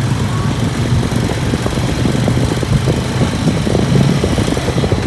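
A motor vehicle engine running close by, a steady low hum over general street noise.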